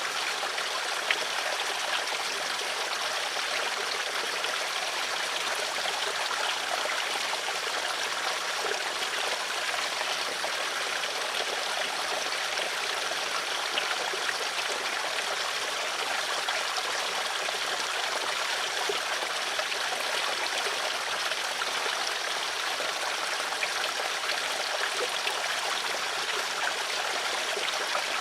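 Steady flowing water of a stream, an even rushing and burbling with small splashes scattered through it.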